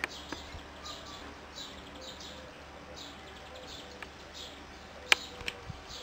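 Small songbird calling, a run of short chirps repeated every half second or so, with a sharp click about five seconds in.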